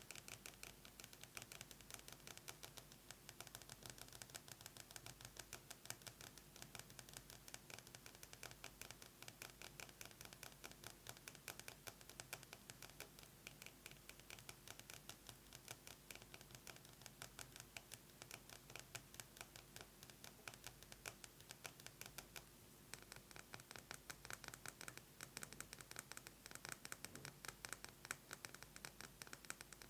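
Long fingernails tapping fast on a metal lipstick tube: a faint, dense run of light clicks, with a short break about three-quarters of the way through before it picks up again a little brighter.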